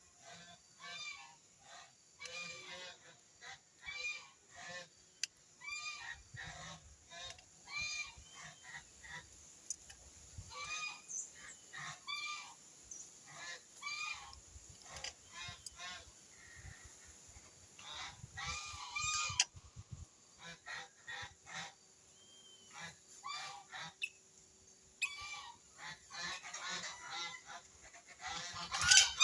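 Birds calling at a feeding tray: short, harsh pitched calls repeated about every second or two, growing busier and louder near the end.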